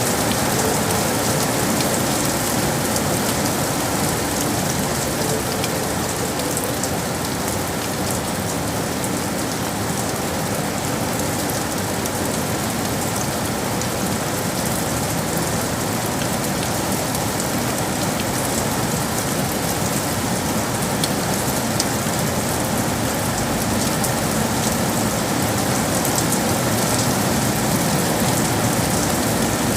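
Steady rain falling and pattering on hard surfaces, with fine drop ticks through the constant hiss of the downpour.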